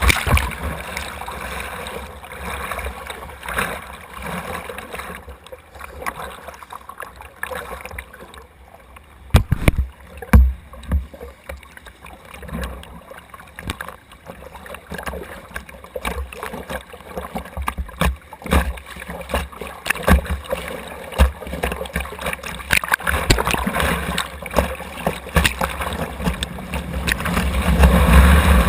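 River water rushing and splashing around a whitewater kayak, heard through a GoPro mounted on the boat, with scattered sharp splashes and low thumps against the hull and camera. The water noise grows louder near the end.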